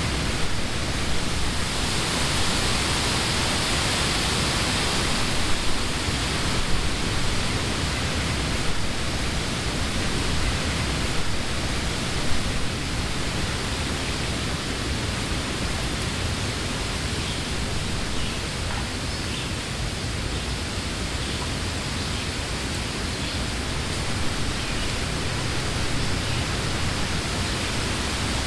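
Wind blowing through leafy summer trees: a steady rustling hiss of leaves that swells in a gust a couple of seconds in, then eases back to a steady level.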